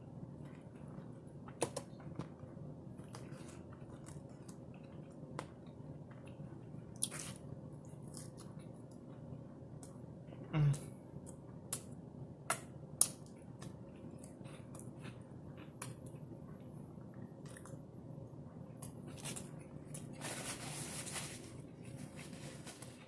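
A person chewing and biting food close to the microphone, with wet mouth sounds and scattered small clicks. A dull thump comes about halfway through, a few sharper clicks follow, and a brief rustling noise comes near the end.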